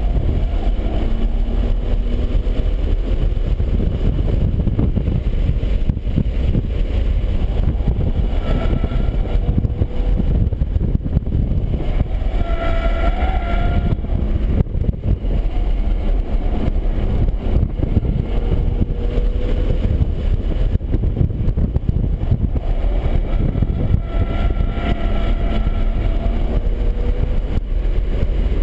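BMW 135i's turbocharged inline-six pulling hard at track speed over heavy road and wind noise, its pitch rising and falling with throttle and gear changes every few seconds.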